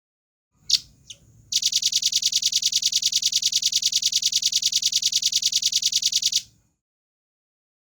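Velvet-fronted nuthatch (rambatan paruh merah) calling: two sharp high notes, then a long, rapid, even trill of about ten notes a second that lasts some five seconds and stops abruptly.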